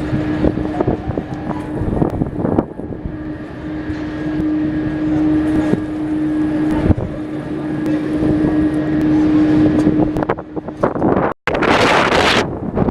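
Jet airliner engines running with a steady droning tone, under heavy wind buffeting on the microphone. Near the end the sound drops out for an instant, then a loud burst of hiss follows.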